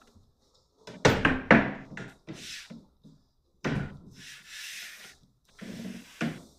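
Wooden flat-pack cabinet panels being handled: a quick run of knocks about a second in, then several longer scraping rubs of board against board.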